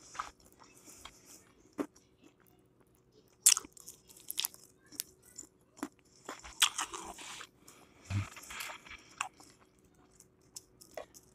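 A person chewing and crunching crispy battered fried food, in irregular bursts of crunches with short pauses between.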